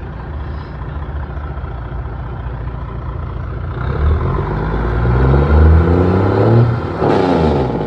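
Diesel engine of a big American truck idling, then revved up, and at about seven seconds the Jake brake (engine compression brake) cuts in with a loud, harsh rasp as the revs fall, stopping abruptly near the end.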